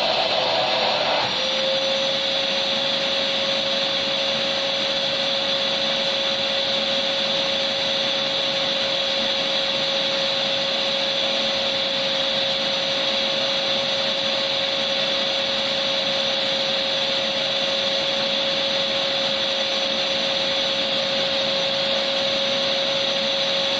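Electric vacuum cleaner running steadily: a constant rushing whine over a steady hum. The tone shifts slightly about a second in, then holds unchanged.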